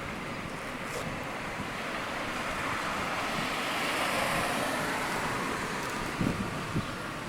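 A car passing by on the street, its noise swelling to a peak about four seconds in and then fading, with a few low thumps near the end.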